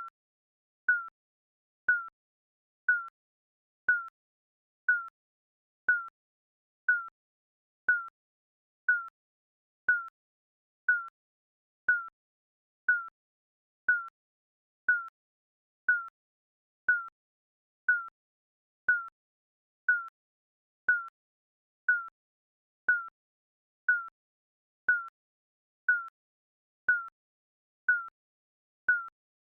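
Digital countdown timer beep, a short electronic tone repeating steadily once a second, each beep dipping slightly in pitch.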